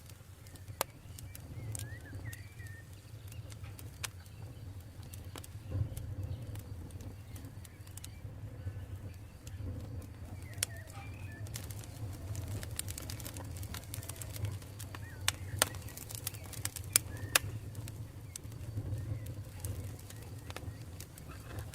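Campfire burning with a low steady rumble and scattered sharp crackles and pops of burning wood; the loudest pops come about three-quarters of the way in. Faint bird chirps sound now and then.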